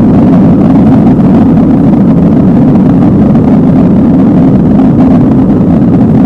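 Cabin noise of an Airbus A320neo with CFM LEAP-1A engines running at high power for takeoff: a loud, steady engine rumble and rush heard from inside the passenger cabin.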